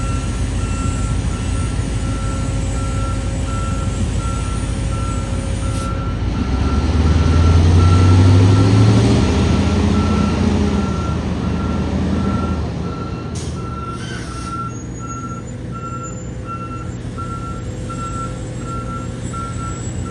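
Reversing beeper of an airport pushback tug sounding in a steady, evenly spaced series of beeps while the aircraft is pushed back. An engine rumble swells up about a third of the way in and dies down past the middle.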